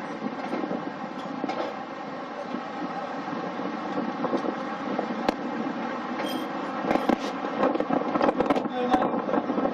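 A train running along the track, heard close up from an open carriage window: a steady running drone under sharp metallic clicks and clatter from the wheels. The clicks come a few times in the middle and bunch together near the end.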